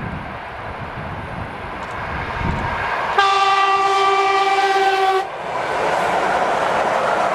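ET2M electric multiple unit sounding one steady horn blast of about two seconds as it approaches, over the building noise of the oncoming train. After the horn stops, the noise of the train running past grows louder.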